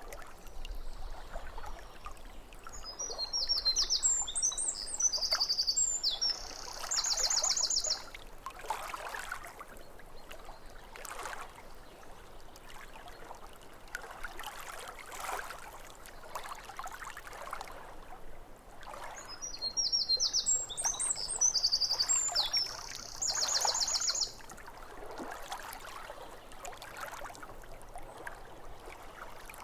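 Small waves lapping at a lake shore, an irregular wash of water, while a songbird sings the same high phrase twice, about sixteen seconds apart: a run of varied quick notes ending in a fast trill.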